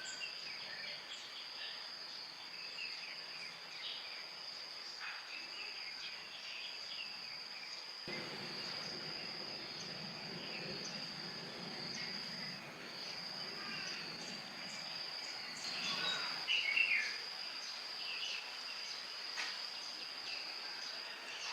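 Steady high-pitched insect drone with scattered short chirps over it. A lower rumble joins about eight seconds in, and a brief louder noise comes about sixteen seconds in.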